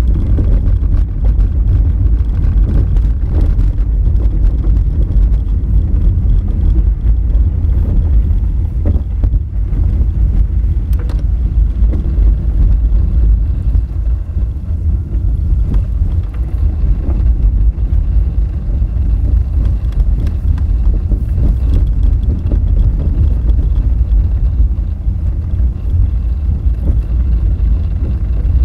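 Honda Fit driving over a rough gravel forest road: a steady, loud low rumble of tyres and suspension on loose rock, with a few sharp clicks of stones.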